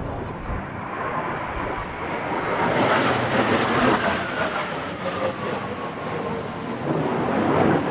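Kawasaki T-4 jet of the Blue Impulse team flying past. Its roar swells to a peak about three seconds in, and its whine slides slowly down in pitch as it goes by.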